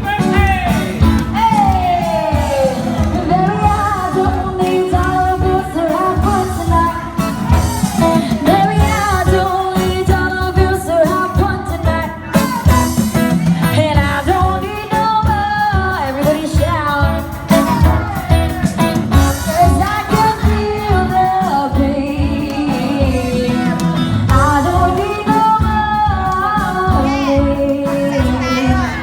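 Live acoustic band music: a singer over guitar with a steady beat.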